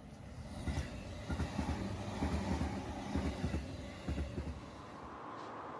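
Commuter train passing, its wheels clattering over the rail joints in a quick run of deep thumps over a low rumble, fading away about five seconds in.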